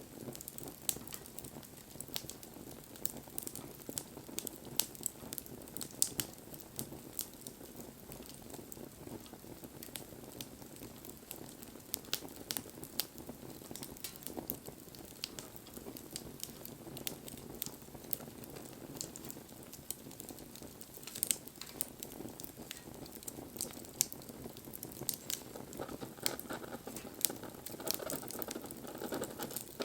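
Wood fire crackling, with frequent sharp pops over a steady low rush of burning; a louder hiss builds near the end.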